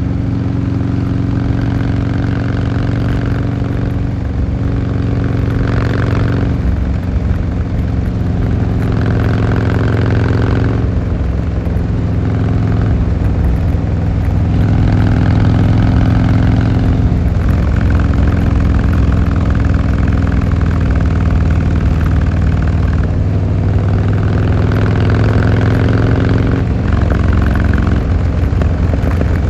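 Harley-Davidson Fat Boy Lo's air-cooled 45-degree V-twin running under way through open exhaust pipes. The engine note climbs and then drops back every few seconds as it is ridden up and down through the gears.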